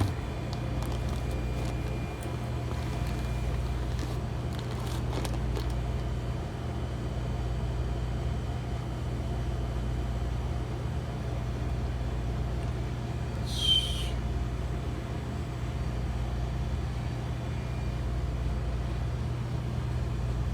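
Steady hum of a T49 two-door reach-in refrigerator's half-horsepower compressor unit running continuously as it pulls the box temperature down. A brief high chirp comes about 14 seconds in.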